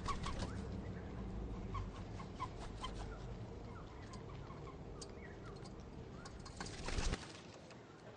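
Birds at a feeder making short, sharp chirps, several in quick succession at first and then scattered. The chirps sit over a low background rumble. Near the end comes a brief loud rustling burst, and right after it the rumble cuts off suddenly.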